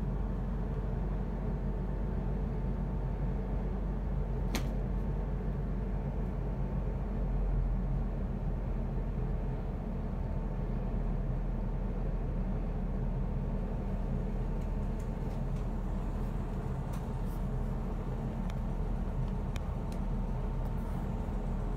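Steady low hum inside the carriage of an electric train standing at a station platform, with a faint constant whine above it. One sharp click about four seconds in and a few light clicks near the end.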